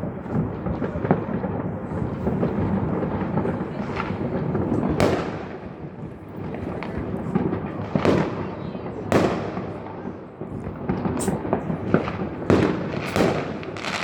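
Fireworks display: aerial shells bursting in a string of sharp bangs over a continuous rumble of launches and distant explosions, the bangs coming more often in the second half.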